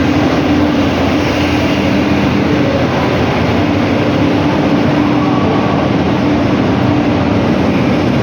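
WDG3A diesel-electric locomotive's 16-cylinder ALCO engine running with a steady, loud drone and a constant hum.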